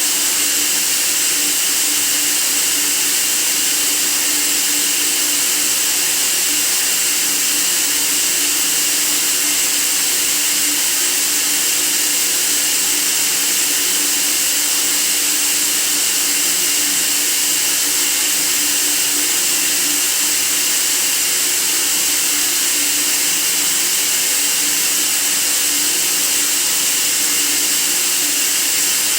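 Steady white noise: an even, unbroken hiss weighted toward the high end, with a faint low hum under it and no change in level.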